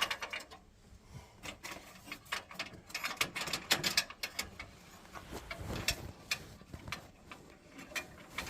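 Small metal clicks, taps and scrapes of a screwdriver and small screws being handled and worked into a boiler part, irregular throughout, with a duller knock a little past halfway.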